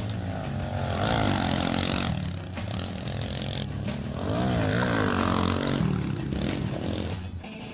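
Small pit bike engines revving up and down as the bikes ride the dirt track, with the pitch swinging repeatedly and loudest about a second in and again around four to six seconds in.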